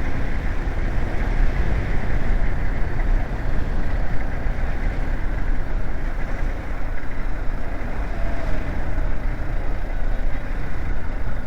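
BMW G 310 GS motorcycle's single-cylinder engine running steadily while riding, mixed with wind and road noise.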